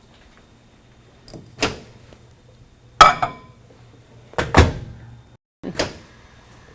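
Microwave oven door being opened and shut: four sharp clunks over a few seconds, the loudest about three seconds in with a brief ring.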